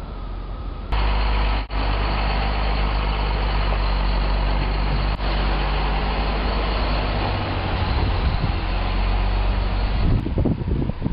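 A heavy motor vehicle's engine running steadily, a low hum under a wash of noise. It starts abruptly about a second in and cuts off just as abruptly near the end, giving way to gusty wind on the microphone.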